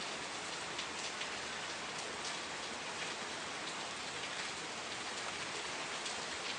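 Steady rain falling, an even hiss flecked with individual drop ticks.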